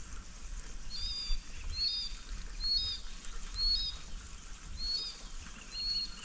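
A bird calling over and over, one short high chirp about every second, over a faint low rumble.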